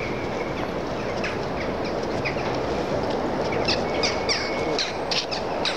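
A passenger train hauled by a ChS7 electric locomotive running along the line: a steady rumble getting slightly louder, with short high squeaks and ticks scattered through it.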